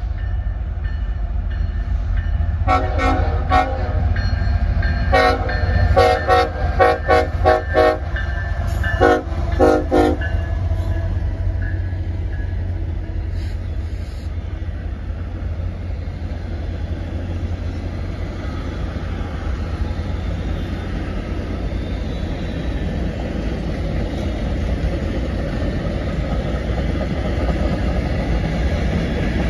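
CSX diesel locomotive horn sounding a string of short blasts over the first ten seconds. After that comes a steady rumble and rail clatter as the train's passenger cars and boxcars roll past.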